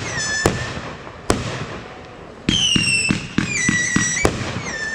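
Consumer fireworks going off in a quick run of sharp bangs, with high whistling tones that slide down and then hold. It eases off about halfway through the first two seconds, and a fresh loud volley with more whistles starts around the middle.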